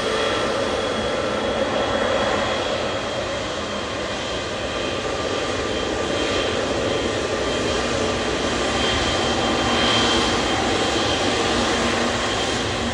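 Jet airliner engines running, a steady rush with a thin high whine that swells a little about ten seconds in.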